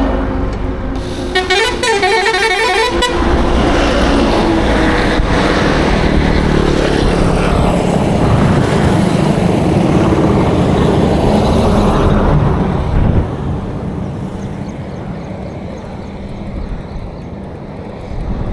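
A vehicle horn sounds a warbling multi-tone blast for about a second and a half, then a heavy vehicle passes close with loud engine and road noise, which eases off about twelve seconds in, leaving quieter traffic noise.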